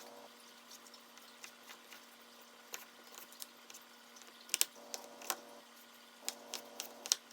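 Knife chopping peeled sweet potatoes into cubes on a cutting board: sharp, irregular knocks, bunched mostly in the second half, over a faint steady hum.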